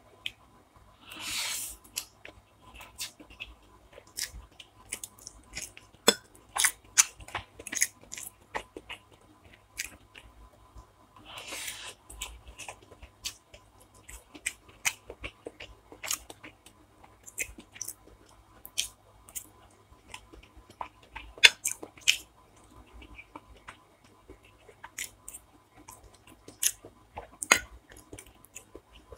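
A person eating up close: chewing and biting food, with many irregular sharp clicks and two longer hisses.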